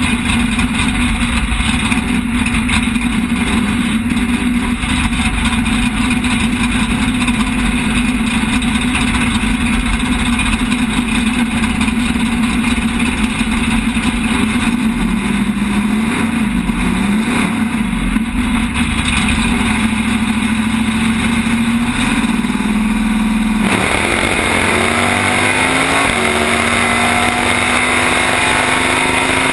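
Drag race car's engine idling loudly, heard from inside the car, its pitch wavering briefly in the middle. About three quarters of the way through it launches at full throttle, the sound jumping to a harsh roar that climbs in pitch in steps as the car accelerates down the track.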